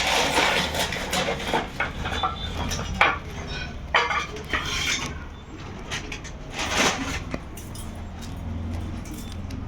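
Irregular clattering and scraping of cooking utensils, with a few sharper knocks.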